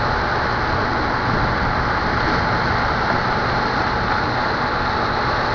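Steady, even rushing noise with no distinct events, holding at a constant level.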